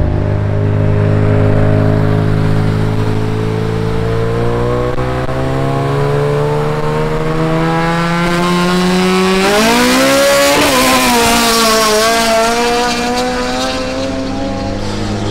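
Car engine accelerating, its pitch climbing steadily for several seconds. About nine seconds in the pitch jumps and a louder, rougher engine and exhaust note takes over, then drops back near the end.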